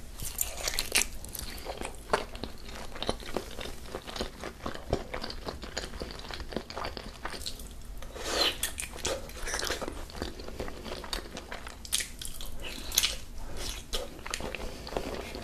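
Wet mouth sounds of biting and chewing a thick slab of raw salmon sashimi: many small irregular smacks and squelches, with a louder run of bites about eight seconds in and again near twelve seconds.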